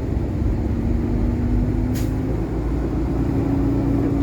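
Semi truck's diesel engine running, heard from inside the cab, its hum stepping up a little in pitch a bit past halfway. A brief sharp hiss about two seconds in.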